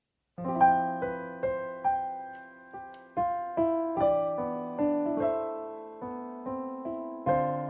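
Background piano music: a slow, gentle melody of single notes and chords, each note struck and fading away, starting about half a second in.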